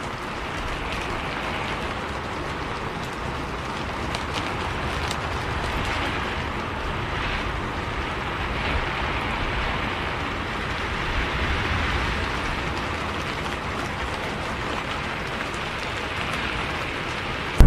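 Steady rain hiss with scattered faint ticks of drops.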